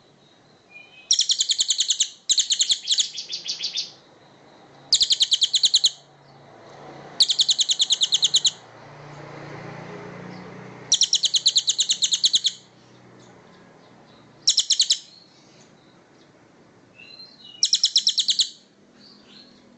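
A songbird giving bursts of rapid, dry, buzzy trills, each lasting about half a second to a second and a half, with pauses between them. A faint low rumble swells and fades in the middle.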